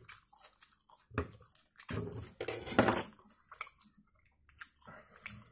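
A man chewing a mouthful of thin-crust pizza close to the microphone: irregular wet chewing and mouth noises, loudest about two to three seconds in.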